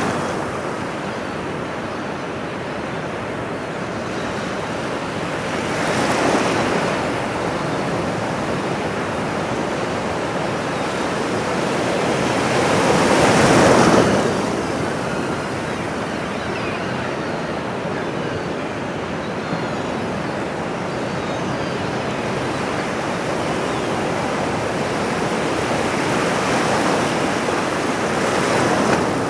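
Ocean surf washing on a shore: a steady rushing that swells as waves break, about 6 seconds in and again, loudest, about 14 seconds in.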